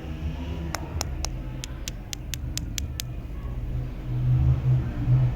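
A low engine-like rumble with a quick run of sharp clicks, about four a second, in the first few seconds; the rumble grows louder near the end.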